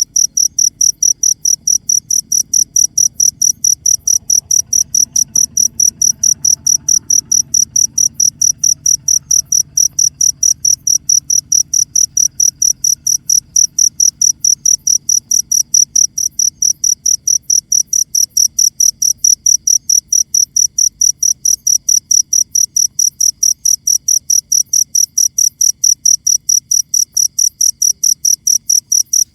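A cricket chirping steadily and evenly, about three to four short, high, clear pulses a second without a break.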